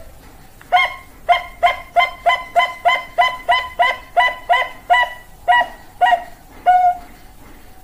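Perkutut Bangkok (zebra dove) calling: a rapid run of about sixteen short, clipped cooing notes, about three a second, slowing toward the end.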